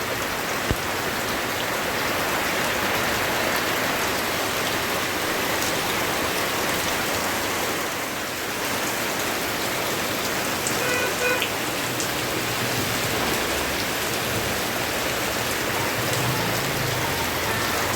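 Steady rain falling on a surface, an even wash of raindrops with no thunder.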